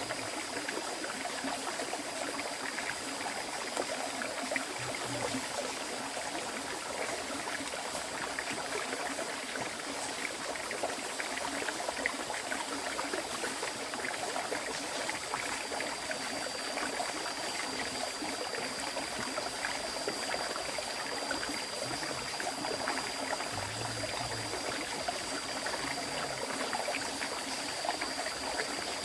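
A river flowing steadily, a continuous rush and babble of water. A thin, steady high tone sits above it and grows a little stronger about halfway through.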